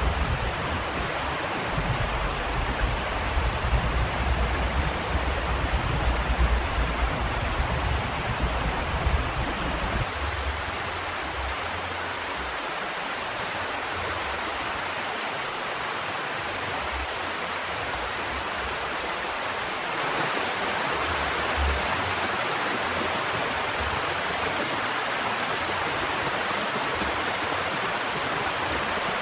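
Heavy rain falling as a dense, steady hiss, with a low rumble under it for the first third. Its character changes abruptly twice, about a third and two thirds of the way through.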